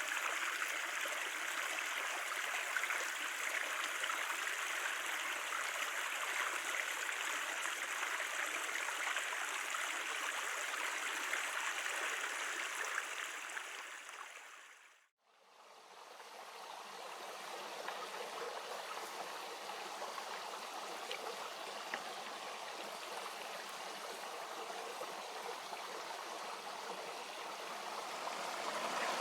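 Creek water flowing steadily. About halfway through, the sound fades out to silence, then fades back in a little softer and duller.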